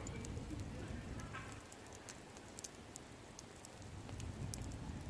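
Wood bonfire crackling, with sharp pops scattered through it over a low rumble of flames that thins out in the middle.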